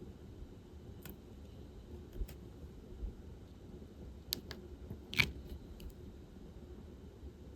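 Diamond painting work: the drill pen and plastic resin drills and trays give light, irregular clicks and taps, with one sharper click about five seconds in.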